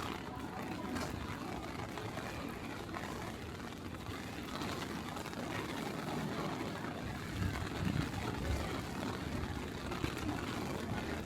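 Steady city street noise of traffic and rain in a typhoon, with a few louder low thumps about three-quarters of the way through.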